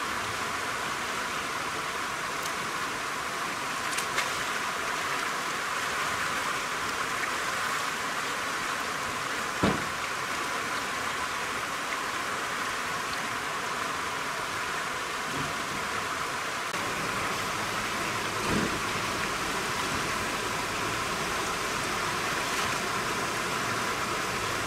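A steady rushing hiss of water, with a few light knocks spread through it.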